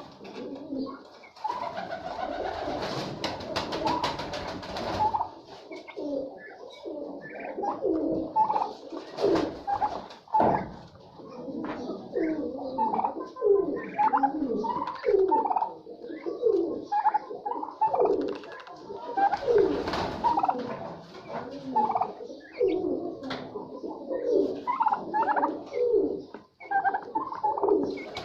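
A flock of domestic turkeys calling: many short, overlapping calls that keep going, with a brief burst of noise about three seconds in.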